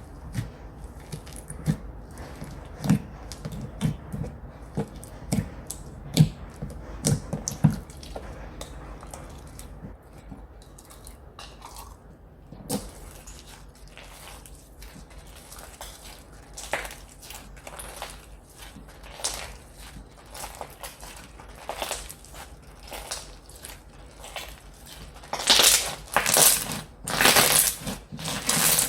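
Slime being squished and pressed by hand. For about the first twelve seconds it makes soft, low squishy pops; after that it turns to fine crackling, with a few louder crunchy bursts near the end.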